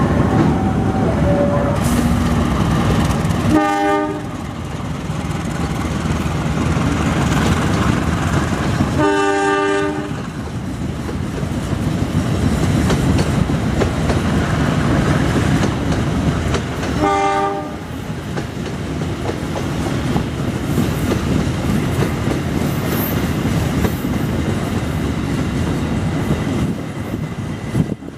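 Train running past with a steady rumble and wheels clattering over the rail joints, its horn sounding three short blasts, about four, nine and seventeen seconds in.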